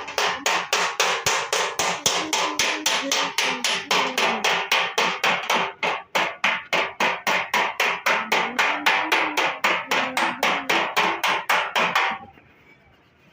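Body hammer striking the body-side panel of a Toyota in dent repair. The blows come steadily, about four a second, and stop about a second before the end.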